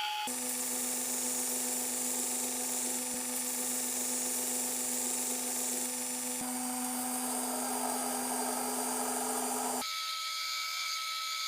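An electric power tool runs steadily with a constant motor hum and a hissing grind, working a steel blade. The sound changes abruptly twice, the second time about ten seconds in, where the low hum drops out and a higher whine is left.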